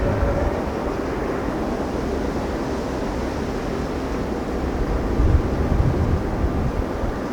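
Steady rumbling jet noise from a departing Boeing KC-135R's four CFM F108 turbofan engines, with wind buffeting the microphone around five seconds in.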